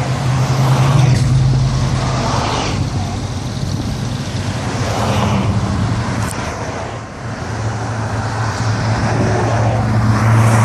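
Classic cars cruising past slowly, their exhausts giving a deep, steady engine rumble. It swells as one car passes about a second in, fades briefly, and swells again as another approaches near the end.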